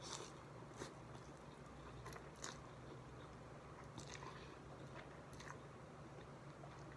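A person chewing a mouthful of chicken pho close to the microphone, faint, with a scattering of soft mouth clicks and small crunches.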